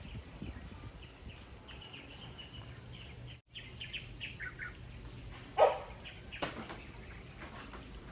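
Ambient birdsong: small birds chirping and tweeting, with one short, louder call a little past halfway, over a low steady background.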